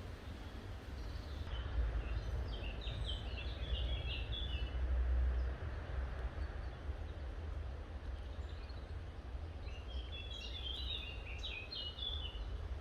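Songbirds singing in two bursts of quick, high, chopped notes, over a steady low rumble.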